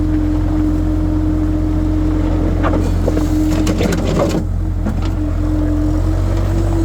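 Skid steer engine running steadily under load, with a held drone. A short run of clanks and scraping from the bucket dragging over the ground comes in the middle.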